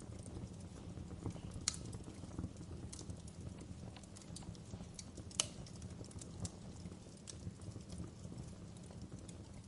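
Wood fire in a fireplace crackling: irregular small pops and snaps over a steady low rumble, with two louder pops about 2 and 5 seconds in.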